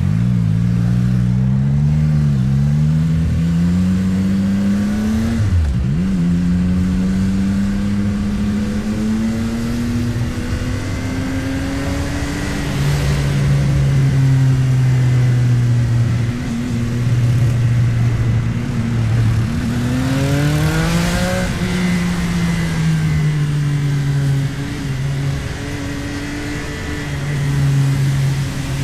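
CFMOTO 675NK's inline three-cylinder engine under way, its pitch climbing as it pulls and dropping at each gear change, with one sharp drop about six seconds in and another hard pull about twenty seconds in.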